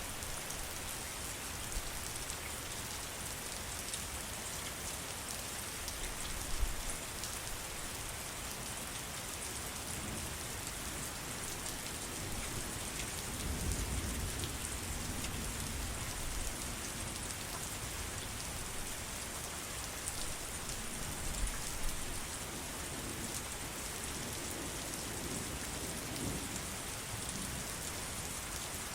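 Steady heavy rain with dense pattering drops. A low rumble swells briefly about halfway through and again faintly near the end.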